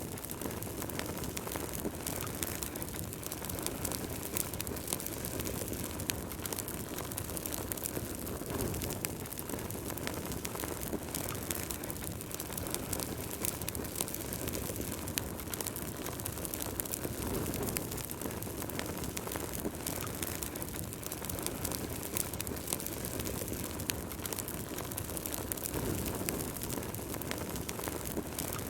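Wood fire burning in a fireplace, with dense, irregular crackles and small pops over a steady low rumble of the flames.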